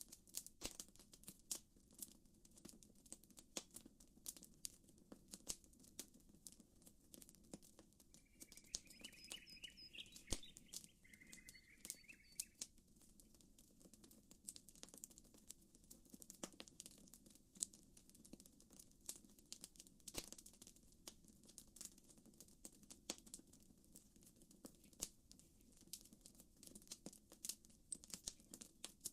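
Campfire crackling, with irregular sharp pops and snaps over a faint low background. About a third of the way through, a bird gives a short chirping call twice.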